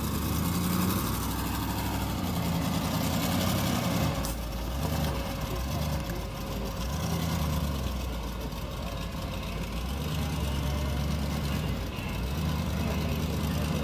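Monster truck's small-block Chevy V8 running steadily at low revs.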